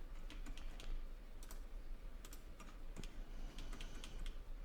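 Faint, irregular clicks from a computer mouse and keyboard, a few sharp clicks a second with uneven gaps.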